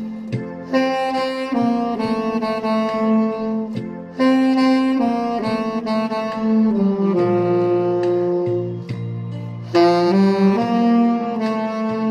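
Tenor saxophone playing a melody in long held notes, with a dry tone and no added reverb; new phrases come in about a second in, at about four seconds and near ten seconds.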